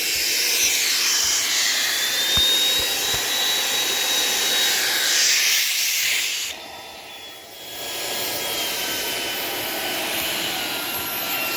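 Shark PowerDetect IP1251 vacuum cleaner running with a steady high whine. About six and a half seconds in the sound drops and the whine falls in pitch, then it comes back up after about a second.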